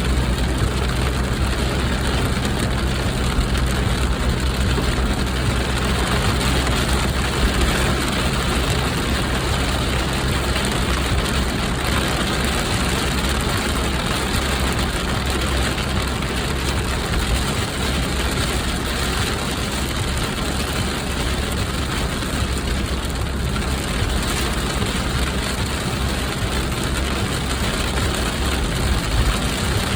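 Steady car cabin noise: a low engine hum under an even, continuous hiss.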